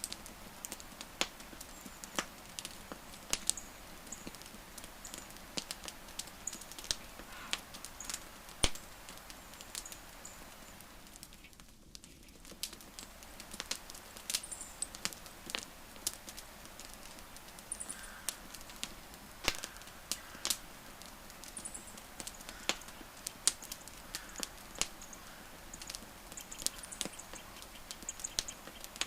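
Wood campfire crackling, with irregular sharp pops and snaps over a soft steady hiss, and faint short high-pitched chirps now and then.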